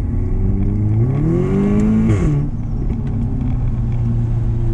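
2016 Audi S3's turbocharged four-cylinder running through a Milltek exhaust, heard inside the cabin: the engine revs up under acceleration, drops sharply on a gear change about two seconds in, then settles to a steady cruise.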